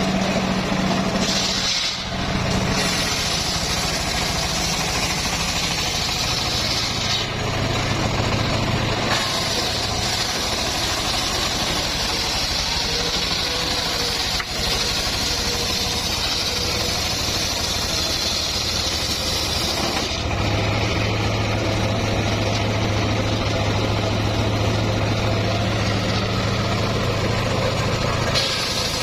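Engine-driven homemade circular sawmill running steadily. Its higher whine switches in and out abruptly several times over a constant low engine hum.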